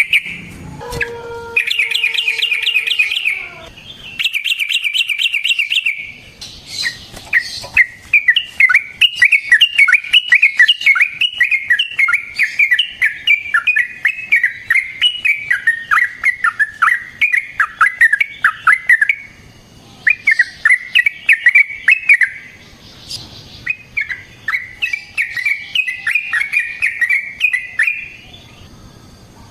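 Yellow-vented bulbul (trucukan) singing loud, rapid, bubbling runs of notes. A long unbroken run fills the middle, with shorter bursts before and after it.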